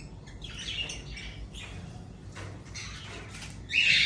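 Caged exotic birds chirping, with a louder, harsh squawk near the end.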